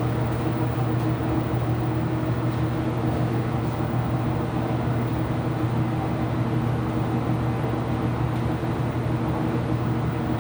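Ipso top-loading washing machine running with a steady mechanical hum.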